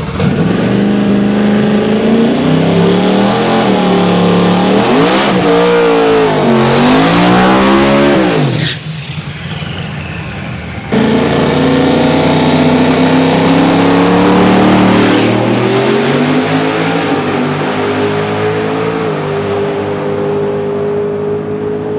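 Twin-turbo Corvette V8 drag car at full throttle, the engine pitch climbing and dropping back at each gear change. The sound falls away about nine seconds in, then a steady loud engine run comes back suddenly about two seconds later.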